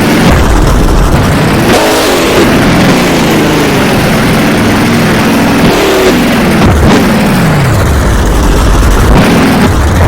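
Monster truck engine revving hard and loud, its pitch repeatedly climbing and then falling away as the throttle is opened and closed several times.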